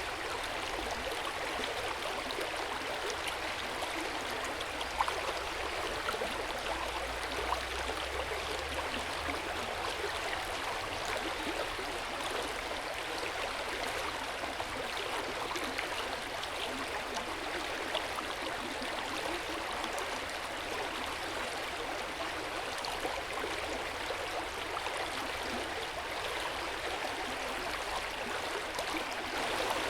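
Hot spring water flowing steadily into an open-air bath: a continuous splashing and trickling, with small drips ticking through it.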